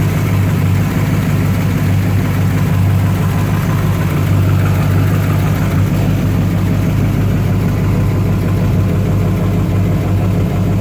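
1974 Chevrolet K10 pickup's engine idling steadily.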